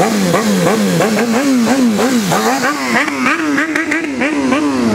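Motorcycle engine revved up and down again and again, about two to three times a second, its pitch climbing sharply and falling back each time.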